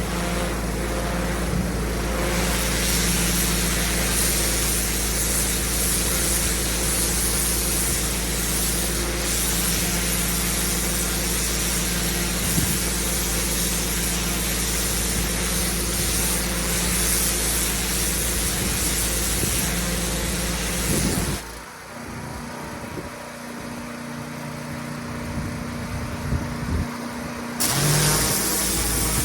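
Pressure washer running steadily: an engine hum under the hiss of the high-pressure water spray. About two-thirds of the way through, the spray hiss stops for about six seconds while the engine keeps running, then it comes back.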